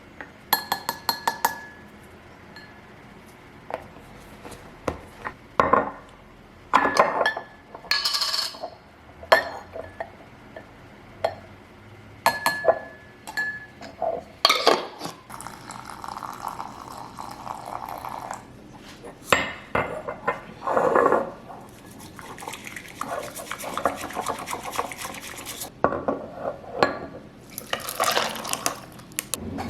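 Kitchen clatter: dishes and cutlery clinking and knocking at irregular moments, with two longer stretches of hiss-like noise about halfway and two-thirds through, such as water running or pouring.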